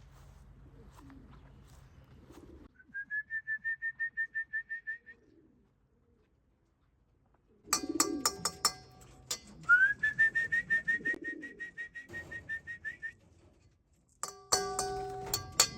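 Two long trilled whistles, each rising quickly and then holding one pitch as a fast warble. Between them come racing pigeons cooing and bursts of sharp clattering, busiest near the end.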